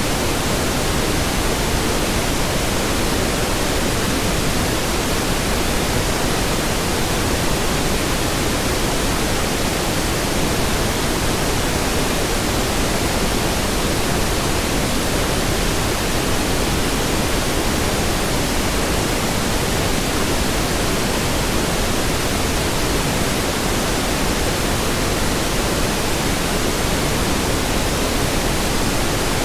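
Steady pink noise: an even, unbroken hiss across all pitches at a constant level.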